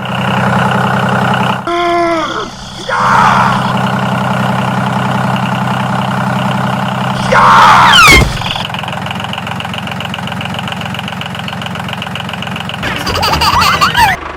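Small engine idling steadily, broken by short sliding, whistle-like sound effects about two seconds in and again near eight seconds. The loudest moment is near eight seconds, after which the engine settles into a lighter, steady hum.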